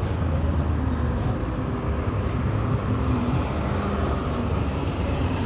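Steady low engine drone with a few faint held tones above it, running evenly throughout.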